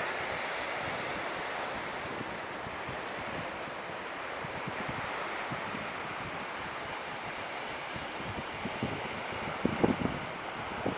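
Surf breaking on the beach with wind buffeting the microphone: a steady rush, with a few low wind thumps near the end.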